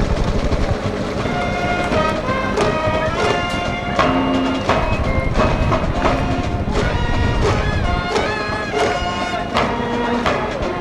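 School cheering band in the stands playing a cheering tune, with held melody notes over a steady drum beat.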